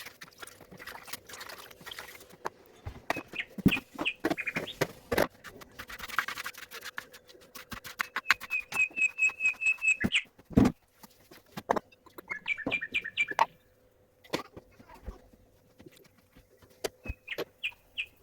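A small bird chirping in several short runs of fast, evenly repeated high notes, amid kitchen clatter: clicks and knocks of utensils and dishes, with a dull thump about ten seconds in.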